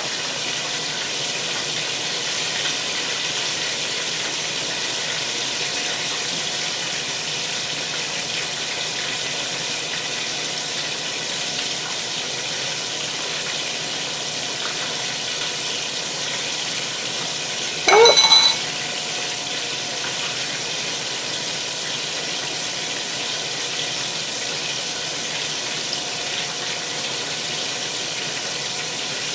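Chicken wings frying, a steady even sizzle. A short rising squeak cuts through once a little past halfway.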